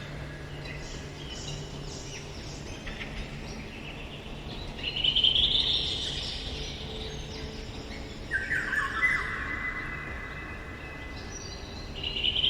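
Songbirds singing in woodland, with several overlapping song phrases. The loudest come about five seconds in and again at eight to nine seconds.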